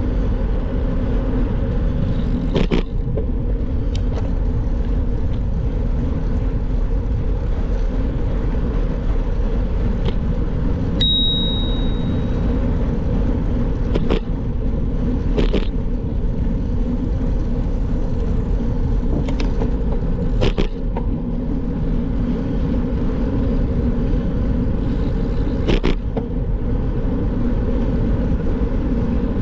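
Steady low wind and road rumble of a bicycle ride, with about six sharp clicks or knocks scattered through it and one short high tone about eleven seconds in.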